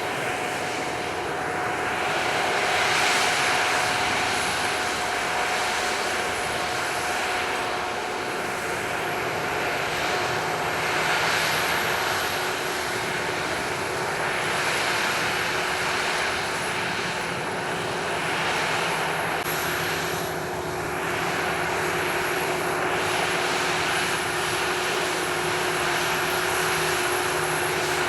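Sakpattana KM-D#1 rice combine harvester running steadily while harvesting paddy: a continuous machine drone with a thin, steady high whine, swelling and easing slightly as it works.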